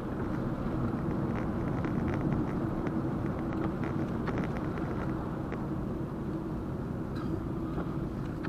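A car driving along, heard as steady engine and road noise, with scattered faint clicks.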